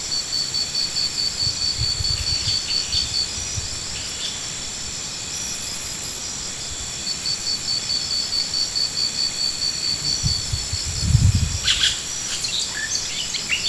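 Insects trilling: a steady high-pitched drone with runs of quick, evenly pulsed chirps that stop and start again midway. A few short bird chirps come near the end, with a couple of low thuds.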